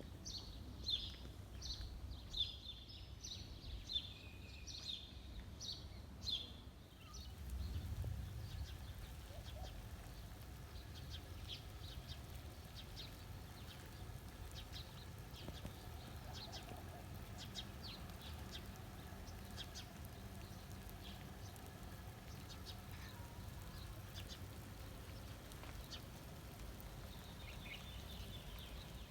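Rain falling steadily, with small birds chirping quickly and repeatedly for the first six seconds or so. A brief low rumble swells about eight seconds in.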